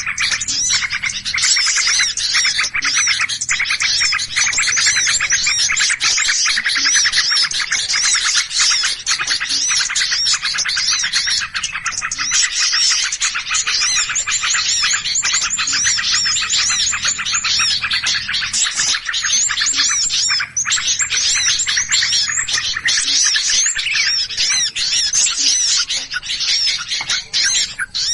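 Many small birds chirping and chattering at once in a dense, unbroken commotion of overlapping calls: a noisy-bird lure recording of the kind played to draw all sorts of small birds in.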